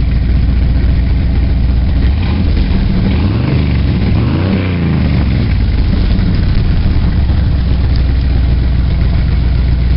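Vehicle engine running loud and steady, with a sweep of pitch rising and falling about halfway through.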